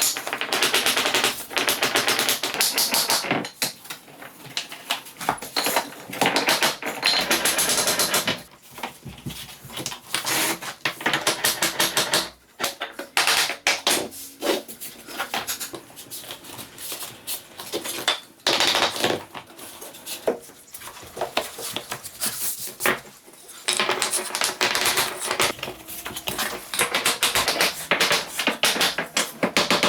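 Wooden floor planks being fitted, with rapid tapping and knocking that comes in several bursts separated by quieter stretches.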